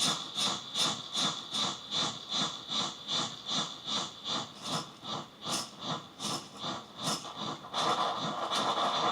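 Improvised electronic noise music from effects-pedal-processed contact-mic instruments: a rhythmic, distorted pulsing at about three pulses a second over faint steady high tones. Near the end a denser, steady wash of noise takes over.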